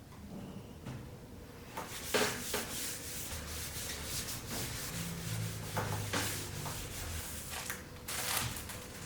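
Irregular rubbing strokes by hand against a plastic scooter body panel, starting about two seconds in, part of preparing the sanded surface.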